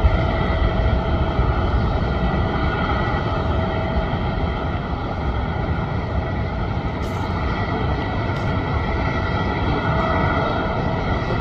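Jet airliner engines running: a steady low rumble with several high whining tones over it, easing slightly in the first few seconds.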